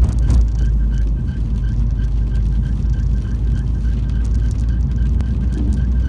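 MINI engine idling with its belt giving a short, high-pitched squeal that repeats at an even rate of about three or four chirps a second.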